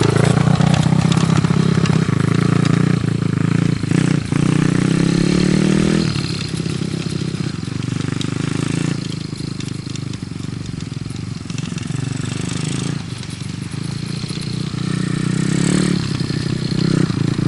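Small dirt bike engine running steadily at low revs, held in third gear so it sounds lugged while the bike moves fast. It is loudest in the first few seconds, drops back partway through and builds up again near the end.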